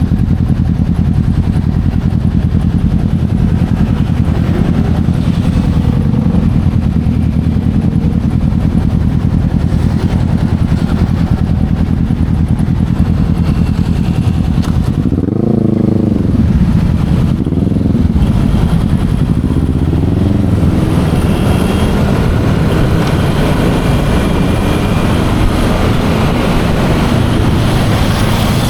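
Yamaha Aerox 155 scooter's single-cylinder engine running steadily while riding. Its pitch swells and falls back about halfway through as the throttle is opened and eased.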